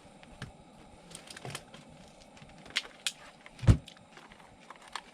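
Cookware and utensils being handled: scattered light clicks and taps, with one dull knock about three and a half seconds in.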